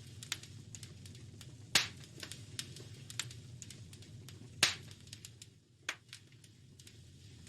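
Wood fire crackling in a fireplace: scattered sharp pops and snaps, two of them much louder, about two seconds and about four and a half seconds in, over a steady low background.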